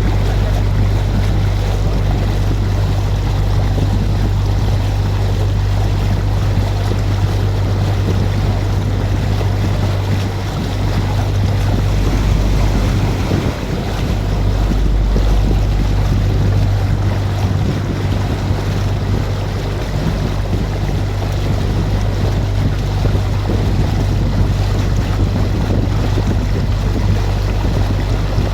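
Canal tour boat's motor running steadily with a low hum, under the wash of water and wind buffeting the microphone; the hum dips briefly about halfway through.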